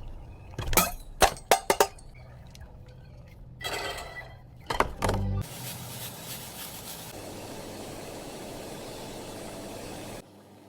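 Workshop sounds: a few sharp metallic clinks and knocks, then a steady hiss for about five seconds that cuts off shortly before the end.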